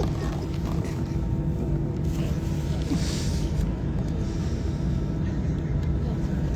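Steady low rumble of a moving vehicle heard from inside, with a faint constant hum.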